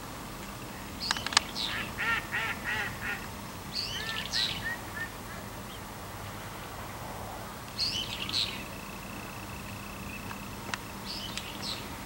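Bird calls in short bursts: a quick run of repeated sharp notes about a second in, another around four seconds, a third near eight seconds, and a fainter one near the end.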